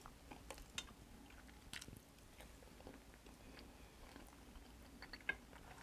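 Faint chewing of a person eating: soft, irregular mouth clicks and smacks, spaced a second or so apart.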